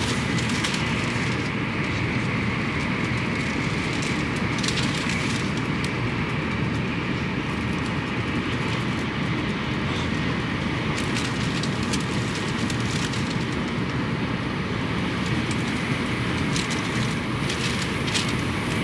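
Steady rumble and rushing noise of a Tokaido Shinkansen train running at speed, heard inside the passenger cabin, with a few faint ticks.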